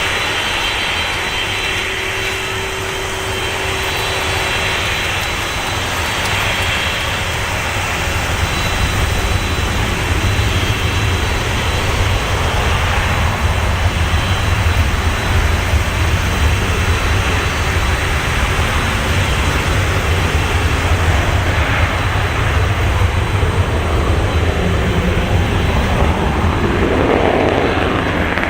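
Boeing 737-200's Pratt & Whitney JT8D turbofan engines running loud and steady: a deep rumble with a hiss over it, growing louder about eight seconds in and then holding.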